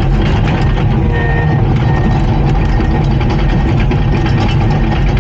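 Heavy diesel engine of a bulldozer running steadily, with a few faint beeps of a reversing alarm from about a second in.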